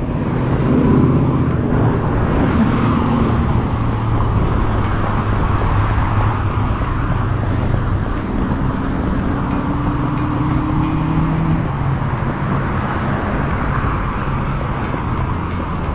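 Motorcycle engine running steadily while riding, with road and wind noise; its pitch shifts slightly a little past the middle.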